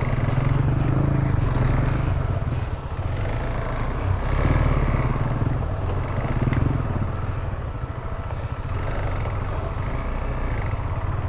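Single-cylinder motorcycle engine running at low trail speed, with small swells in the throttle.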